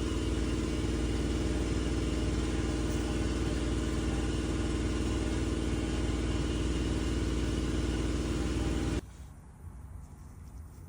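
Electric heat gun running steadily, heating and curing the heat-cure vinyl filler, then switched off suddenly about nine seconds in.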